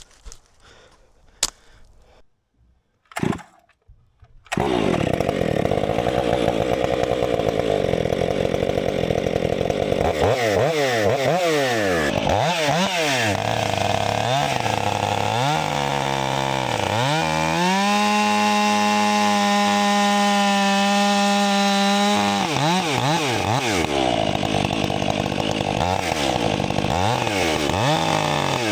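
A couple of light knocks, then a Stihl 500i fuel-injected two-stroke chainsaw bursts in at high revs cutting through a pine log, its chain's rakers lowered a little. The engine speed dips and climbs repeatedly under load, holds steady at full throttle for a few seconds past the middle, then wavers again as it keeps cutting.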